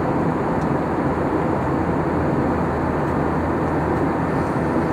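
Steady in-flight cabin drone of an Airbus A321-231 airliner: engine and airflow noise heard from inside the cabin, a low, even rumble with no change.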